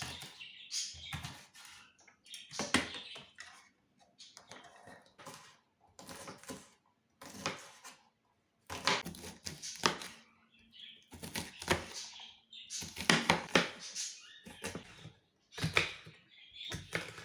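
Irregular sharp knocks and clatters of kitchen utensils and dishes being handled, about one a second, with short stretches of rustling between them.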